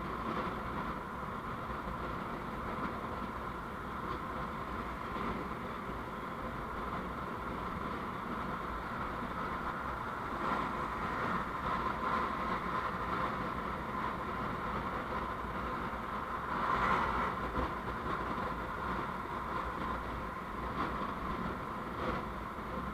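Steady vehicle running noise on the road, a low rumble with a continuous hiss, as picked up by an on-board camera, with a few faint ticks along the way.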